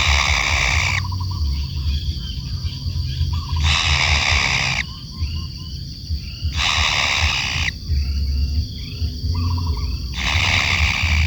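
Kingfisher giving a harsh, rasping call about a second long, four times at roughly three-second intervals. Softer short chirps and rattles come between the calls, over a steady high whine and a low hum.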